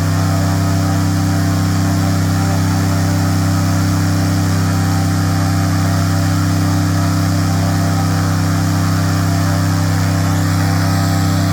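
Airboat engine running steadily at high speed on a long test run to check that the newly repaired water pump keeps it cool without overheating.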